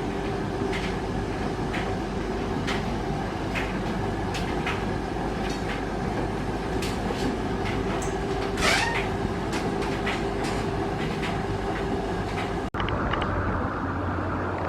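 Steady running noise of a moving vehicle with a constant hum and sharp clicks every second or so, and a brief whoosh about nine seconds in. The sound changes abruptly shortly before the end.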